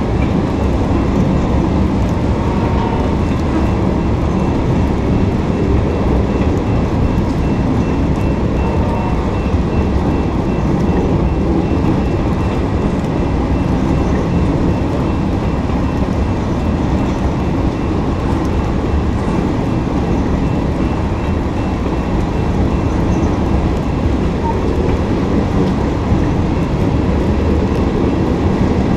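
Freight train rolling past close by: a steady, even rumble of cars and wheels on the rails.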